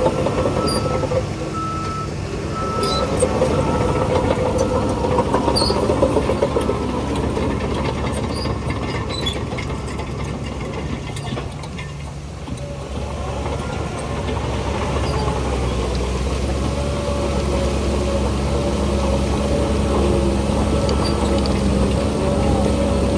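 Heavy diesel earth-moving machinery running steadily. A reversing beeper sounds in short repeated beeps during the first few seconds, and scattered clanks and knocks come through in the first half.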